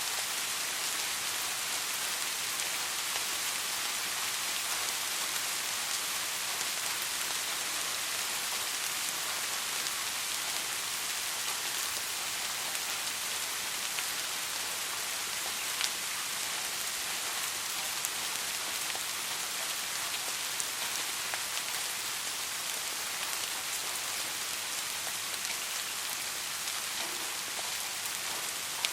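Steady soft rain falling, an even hiss with scattered small drop ticks.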